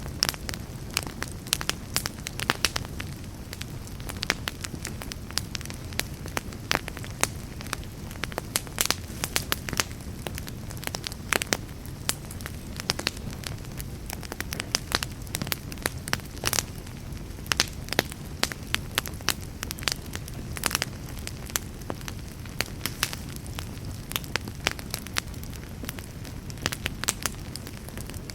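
Fireplace fire crackling, with frequent irregular sharp pops over a steady low rumble of flame.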